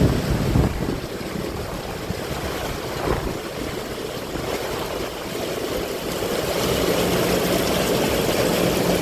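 Heavy rain and rushing water over a flooded road, a steady noise, with a vehicle engine's hum coming in and growing louder in the second half.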